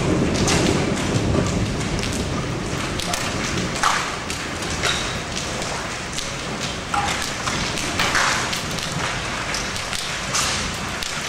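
Rain falling during a thunderstorm, a steady hiss with frequent sharp taps of drops striking nearby roofs and metal. A low thunder rumble dies away over the first couple of seconds.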